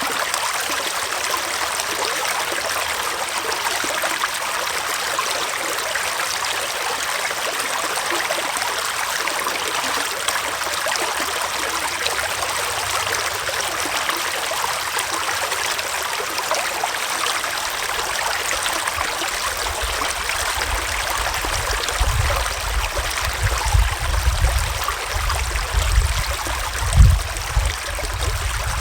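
Small forest stream flowing and trickling in an even, steady rush. Irregular low rumbling joins in about two-thirds of the way through, loudest near the end.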